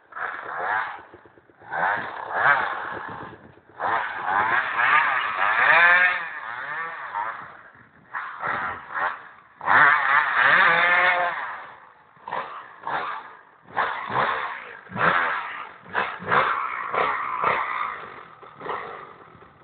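Dirt bike engine revving hard in repeated bursts, its pitch climbing and falling with each burst of throttle and dropping away between them.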